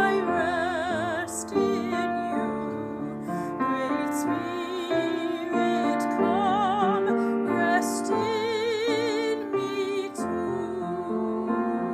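A hymn sung by a solo voice with a wide, wavering vibrato, over piano accompaniment.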